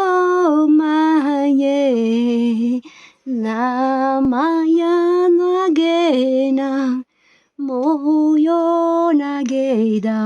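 A woman's voice singing unaccompanied in long, held, gliding notes, like a chant: three phrases with short breaths between them.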